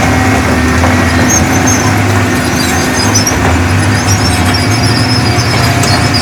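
Heavy diesel construction machinery running steadily under load, with scattered high metallic squeaks over the engine's low hum.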